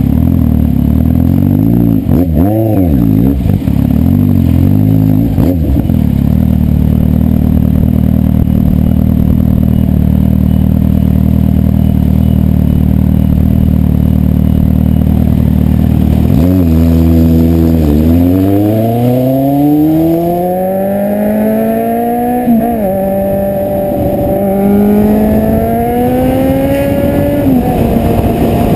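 Kawasaki Z750 inline-four motorcycle engine, loud throughout. It takes a couple of short throttle blips, then idles steadily. Later the revs climb slowly twice, each climb ending in a sudden drop in pitch.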